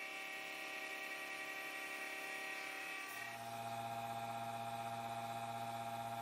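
Steady electric whine of a CNC mill-turn machine's motors, holding several tones; about halfway through the higher whine drops out and a lower steady hum takes over.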